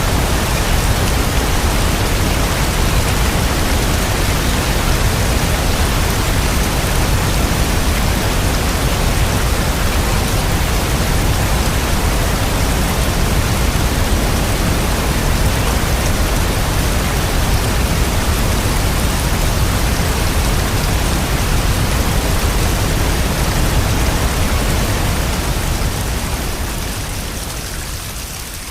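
Steady rain falling, a dense even hiss, which fades down over the last few seconds.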